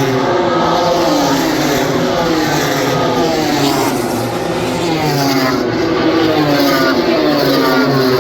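Several racing motorcycle engines running at once as a group of bikes passes, their pitch falling again and again in overlapping sweeps.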